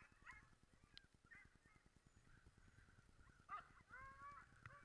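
Harnessed sled dogs yelping and whining with excitement at the start, eager to pull. The calls are sparse at first and grow louder and more frequent about three and a half seconds in.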